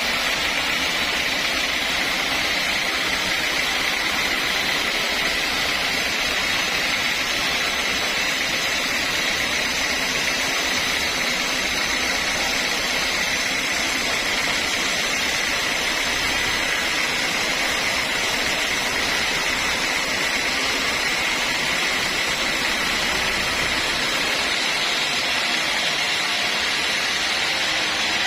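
Sawmill saw running steadily: a continuous, even machine noise with a constant high whine, unchanging throughout.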